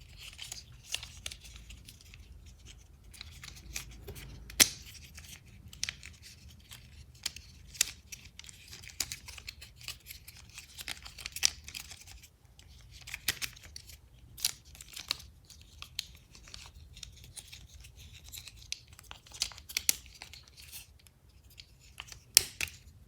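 Plastic transforming toy robot being turned from vehicle to robot by hand: scattered clicks and snaps of its plastic joints with scraping and rustling, the sharpest snap about four and a half seconds in.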